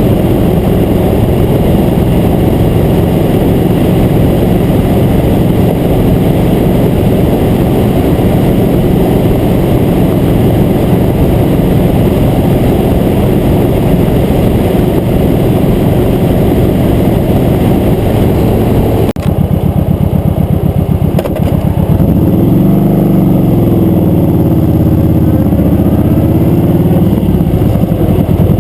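Motorcycle engine running under way, at a steady pitch at first. About nineteen seconds in the sound changes abruptly, and after that the engine pitch rises and falls.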